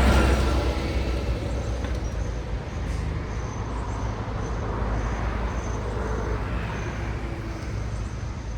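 Road traffic on a city street: a vehicle passes close at the very start and its noise fades away over the next couple of seconds. A steady low traffic rumble follows, and another vehicle swells past about six to seven seconds in.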